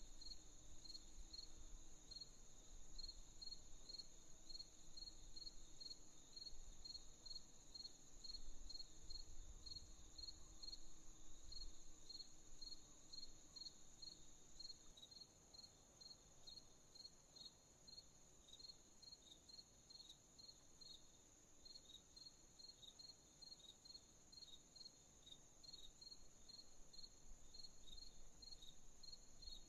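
Faint crickets chirping at night: evenly spaced short chirps, about two to three a second, over a steady high insect trill.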